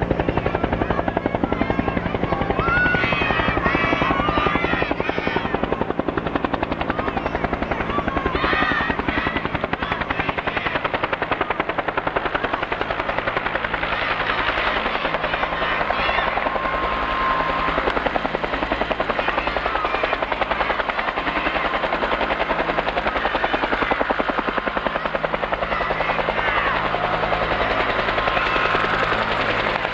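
Firefighting helicopter working low over the water, its rotor chopping rapidly and steadily over the engine's running hum; the deep low end thins out about halfway through.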